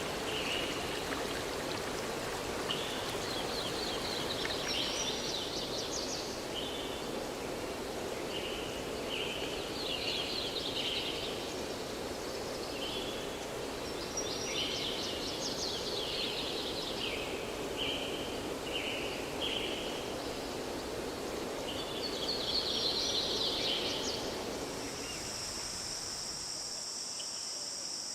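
Steady rushing of a forest stream, with a songbird singing short trilled phrases every few seconds. Near the end the water sound falls away and a steady high insect chirring, like crickets, comes in.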